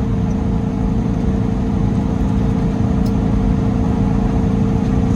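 Steady drone of a semi truck's diesel engine and road noise heard inside the cab while driving, with a constant hum.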